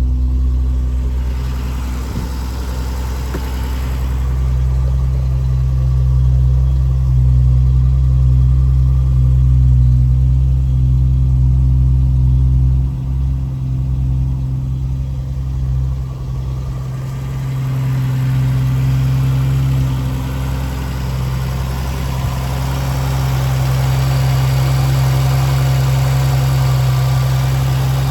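1970 Triumph TR6's 2.5-litre straight-six running steadily at idle while warming up after a cold start, its note wavering briefly about halfway through.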